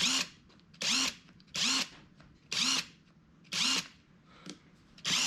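Cordless impact wrench spinning with no load, its trigger blipped in five short whirring bursts about a second apart, each rising and falling in pitch, then held for a longer run near the end. The freshly fitted lithium-ion battery has charge.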